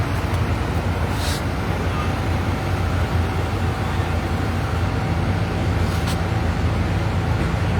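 Steady low rumble of vehicle engines and road traffic, with a faint steady tone joining about five seconds in.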